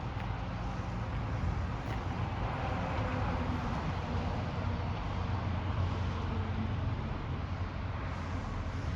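Steady low engine rumble under an even wash of noise, unchanging throughout.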